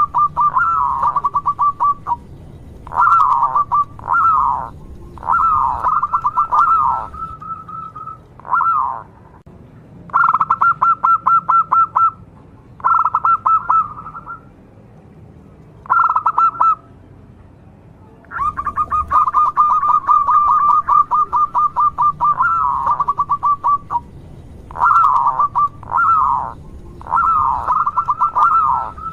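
Zebra dove (local Indonesian perkutut) cooing: repeated phrases of fast, pulsed coos, each a second or two long, several ending in falling notes, with short pauses between. A little past halfway comes one longer unbroken run of rapid coos.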